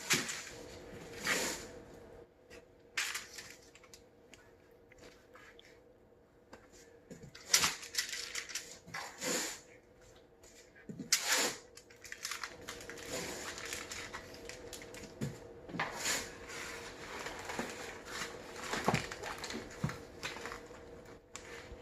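Irregular rustling, crinkling and tearing of plastic packaging with scattered clicks and knocks, as raw steak is unwrapped and handled for seasoning. A faint steady hum lies underneath.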